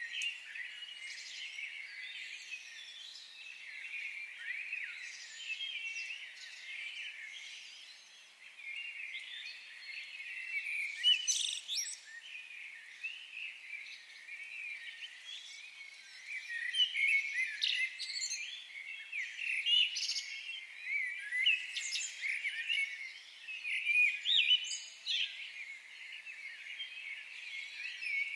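A chorus of several songbirds singing and chirping at once, many quick high notes overlapping, with louder calls about eleven seconds in and through the second half.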